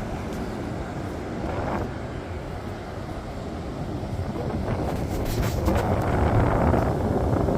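Ocean surf washing up on the beach, with wind buffeting the microphone; the rush swells louder over the last few seconds.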